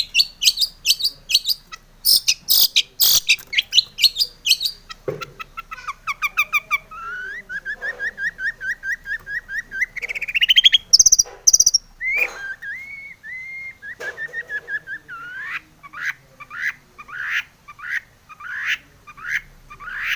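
Long-tailed shrike (cendet) singing: fast harsh chattering, then a run of whistled notes and rising glides in the middle, and evenly spaced harsh calls again towards the end.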